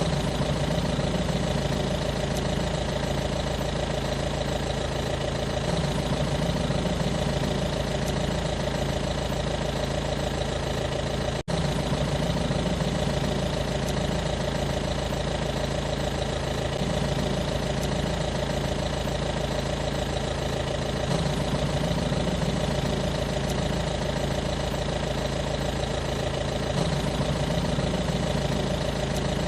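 An engine idling steadily with a slowly pulsing low rumble, broken by a momentary dropout about eleven seconds in.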